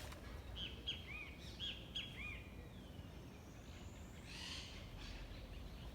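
Bird calling: a quick series of about six short, high chirps in the first two seconds, then a fainter, rougher call a little after the middle, over a faint low background rumble.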